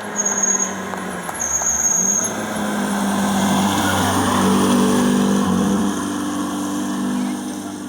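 Historic rally car's engine running hard, growing louder to a peak about five seconds in, then dropping off sharply near six seconds.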